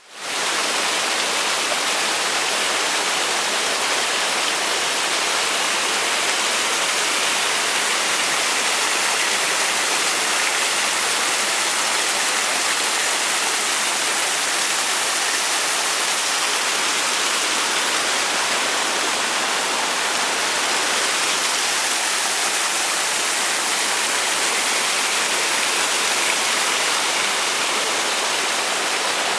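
Steady rushing of water, an even hiss heaviest in the high range, fading in at the start and holding level throughout.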